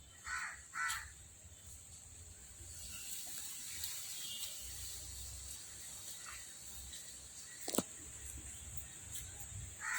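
A crow caws twice in quick succession near the start and once more at the very end, over a steady high-pitched insect drone. There is a single sharp click a little before the end.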